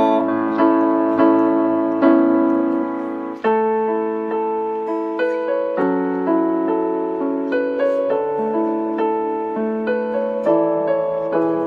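Piano playing a slow, gentle instrumental outro: held chords and single notes struck about every half second, each fading, with no singing.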